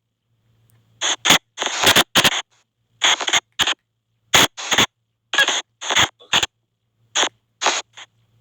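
Spirit-box app on a phone playing choppy, rapid-fire bursts of white noise and chopped audio fragments, about two short bursts a second with silent gaps between them.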